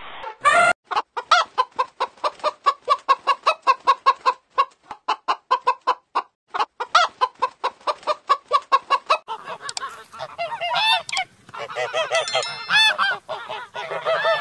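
Chickens clucking: a long, even run of short clucks, about three or four a second, then several birds calling over one another for the last few seconds.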